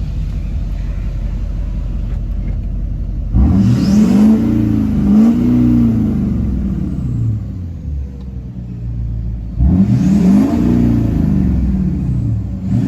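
LBZ Duramax 6.6-litre V8 turbo-diesel with a 5-inch straight-pipe exhaust, heard from inside the cab with the windows down. It runs low and steady, then about three and a half seconds in it revs up and falls back twice. It settles and revs up again about ten seconds in.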